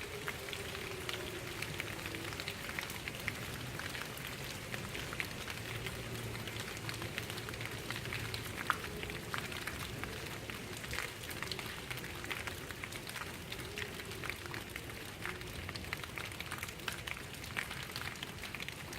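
Steady rain with many individual drops pattering. Underneath, a faint tone slowly wavers down and back up several times: a distant outdoor tornado warning siren.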